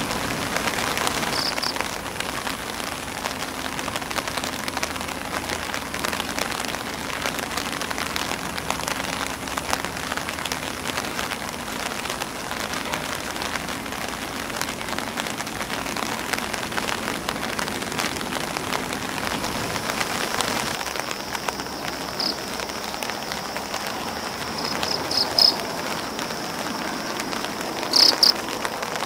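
Steady rain falling on an umbrella and grass leaves, a dense patter of drop ticks. Near the end a few short, high chirps stand out above the rain.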